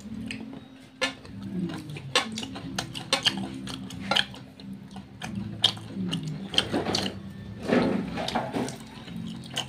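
Close-miked eating of fried chicken and rice by hand: wet chewing and lip-smacking with many short sharp clicks, and a few louder, noisier bites about two-thirds of the way through and near the end.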